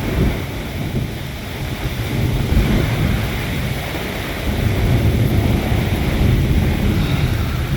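A strong squall gust buffeting the microphone with a low, noisy rumble of wind, building louder about halfway through.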